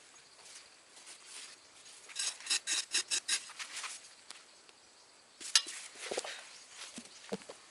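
Short scraping and clicking sounds of something being handled: a quick run of clicks about two seconds in, a single sharp click about halfway through, and a few soft low thuds near the end.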